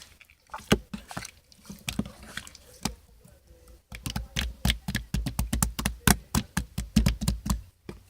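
Clear slime being squeezed and poked by hand, making wet clicking pops. The pops are scattered at first, then come fast and close together from about halfway through.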